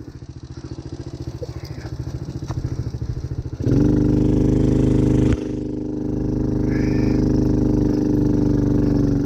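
ATV engine pulsing at low revs and slowly building, then opened up sharply about three and a half seconds in and held at a steady higher speed, with a brief dip about five seconds in before it settles again.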